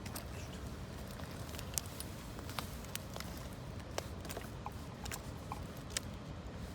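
Wood campfire of gathered branches crackling, with sharp irregular pops about once a second over a steady low background.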